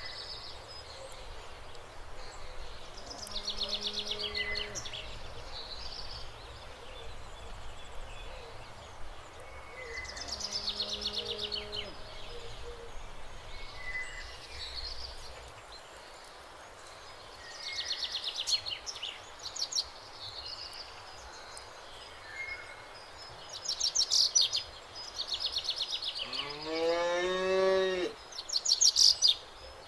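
A cow moos once near the end, a long call that rises in pitch. Small birds chirp in quick trilled bursts every few seconds throughout.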